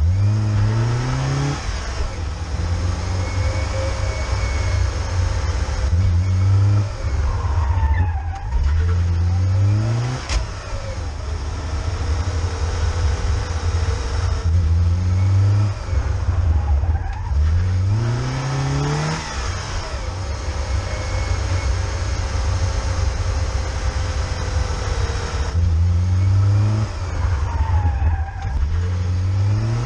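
Fiat Panda's engine driven hard and heard from inside the car. It revs up through the gears again and again, its pitch climbing and then dropping sharply at each shift, with a steady engine drone in between.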